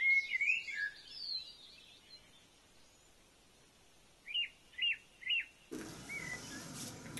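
Small songbird chirping: a quick run of short gliding notes in the first second or so, then three quick down-slurred chirps about half a second apart a little after four seconds in, and one more short chirp near the end.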